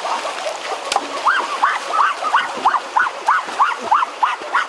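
A fast, regular series of short chirping calls, about three a second, starting about a second in, over the steady rush of running water.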